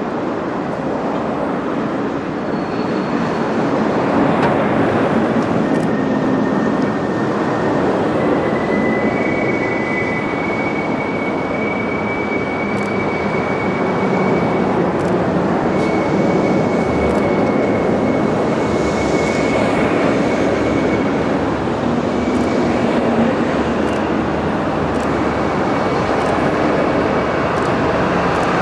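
Freight train of tank wagons hauled by the KD55 diesel locomotive approaching on a curve: a steady rumble of engine and wheels that gets a little louder over the first few seconds. A thin, high wheel squeal from the curve comes and goes from about six seconds in.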